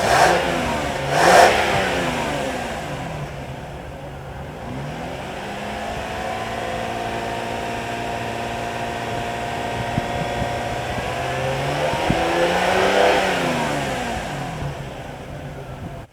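2001 Lexus ES300's 3.0-litre DOHC V6 being revved while parked: two quick blips of the throttle, then a long slow climb in revs that peaks a few seconds before the end and falls back toward idle.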